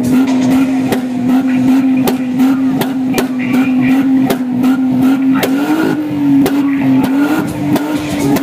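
Volkswagen Mk3 sedan's VR6 engine held at a steady high rev while parked, with frequent sharp cracks through the sound. The pitch rises and dips briefly about two-thirds of the way through.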